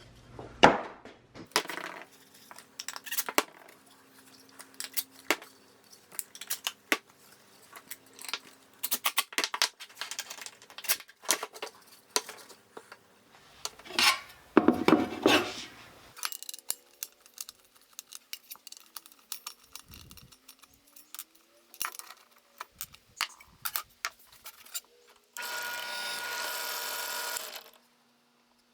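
Small hardware and hand tools being handled on a workbench: irregular clicks, clinks and knocks, with a few short scraping bursts. Near the end a steady whirring sound lasts about two seconds.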